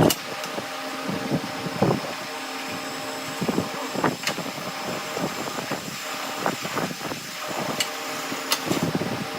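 Steady machine hum at several pitches, with irregular knocks and taps over it.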